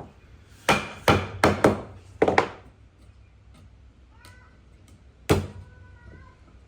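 Sharp knocks on wood: five in quick succession in the first two and a half seconds, then one more a little after five seconds in. Faint short squeaks are heard between them.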